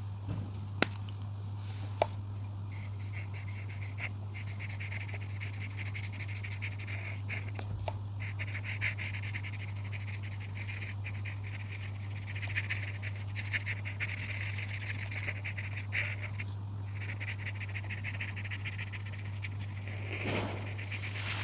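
Coloring on paper: fast back-and-forth scratching strokes that come in long runs with short pauses, over a steady low hum. There are two sharp clicks near the start.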